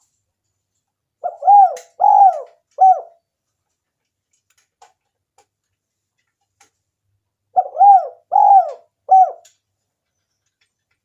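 Spotted dove (tekukur) cooing: two calls about six seconds apart, each a short lead note followed by three coos that rise and fall in pitch.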